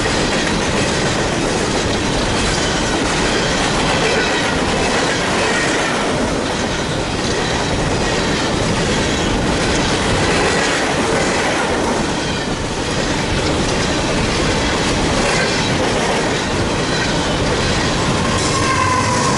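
Coal train's freight cars rolling past, with steady loud wheel-on-rail noise, clacking of wheels over rail joints, and thin wheel squeals that come and go, clearest near the end.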